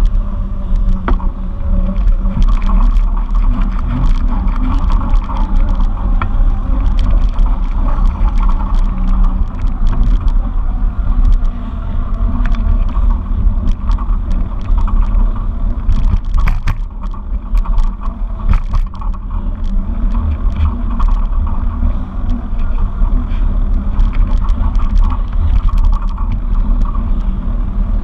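Loud, steady rumble of wind and road noise on a camera carried along on a moving bike, with many small rattles and knocks throughout.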